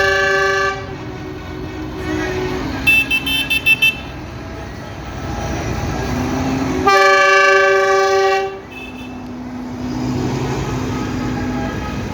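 Vehicle horns tooting over running tractor engines: a horn blast at the start, a quick run of about five short, higher toots around three seconds in, then one long blast of about a second and a half near the middle.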